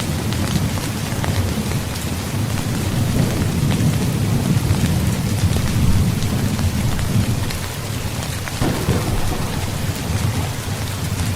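Steady heavy rain with sharp drop hits, under a continuous low rumble of rolling thunder that swells midway and eases for a moment near the end.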